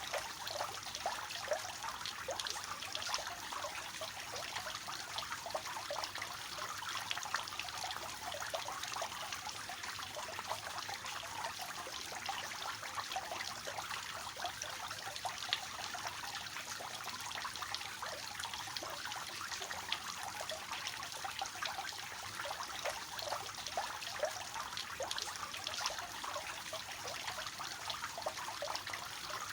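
Water falling and splashing steadily in a three-tiered cascading fountain, a continuous trickling patter.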